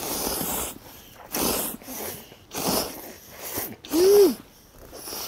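A person slurping hot ramen noodles in several short, noisy slurps, with a brief voiced "mm" rising and falling in pitch about four seconds in.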